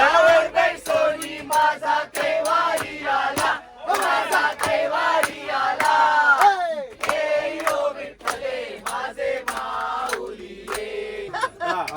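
A group of people chanting and shouting together in unison, the voices held and gliding, with one long falling cry near the middle and sharp clicks throughout.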